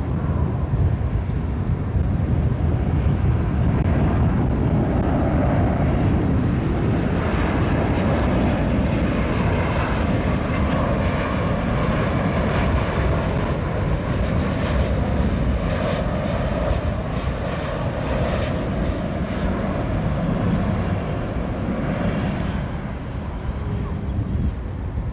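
Jet airliner engines running with a steady deep rumble and a thin high whine in the middle, easing off slightly near the end.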